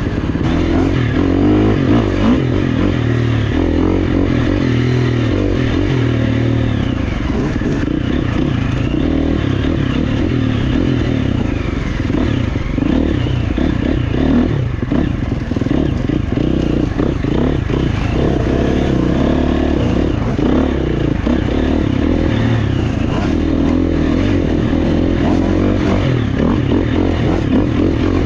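Dirt bike engine, the GasGas EX350F four-stroke single, running under load on trail and revving up and down continually as the rider works the throttle through single track.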